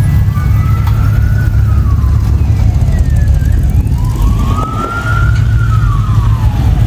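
A siren wailing, slowly rising and falling in pitch about every four seconds, over the steady low rumble of car engines running.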